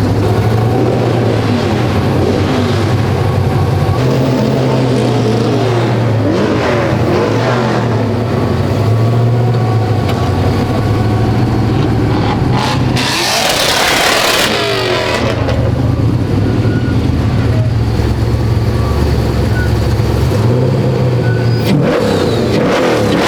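Off-road race truck's engine running under load and revving, its pitch rising and falling repeatedly. A brief burst of rushing noise comes a little past halfway.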